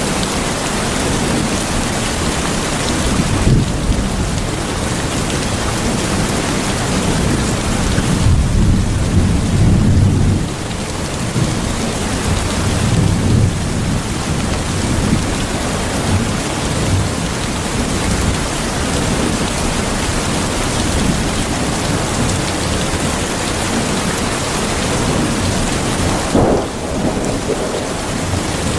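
Steady rain with several low rumbles of thunder, the longest about eight to ten seconds in and another shortly before the end.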